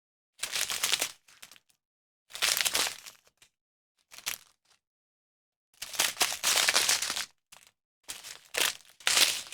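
Plastic packaging from a diamond-painting kit crinkling as it is handled, in about five short bursts with dead silence between them.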